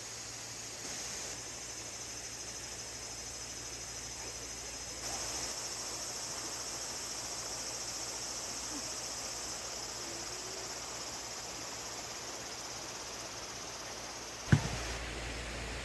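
Crickets trilling steadily in a high band over a soft, even background rush. A single sharp knock stands out near the end.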